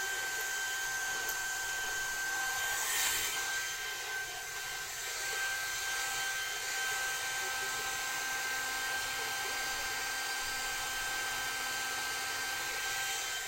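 Hair dryer running steadily: an even rush of blown air with a constant high motor whine, briefly louder about three seconds in.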